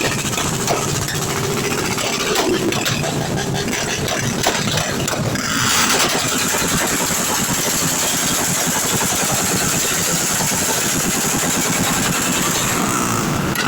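Motorcycle engine running, getting louder and brighter about five and a half seconds in.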